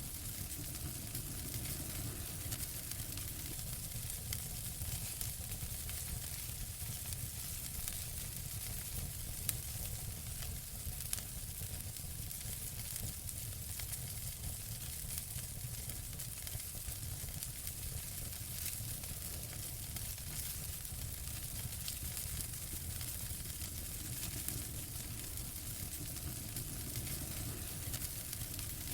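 Wood fire burning in a fireplace: steady crackling made of many small snaps, over a soft low rumble and hiss. A couple of sharper pops come about ten seconds in.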